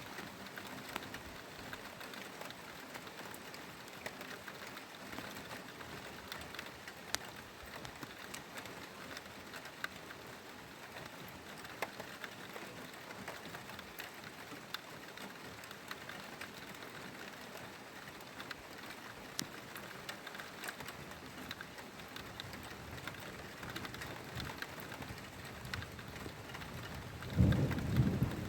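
Steady rain with scattered drops ticking on nearby surfaces. About a second before the end, a loud, deep rumble of thunder suddenly begins.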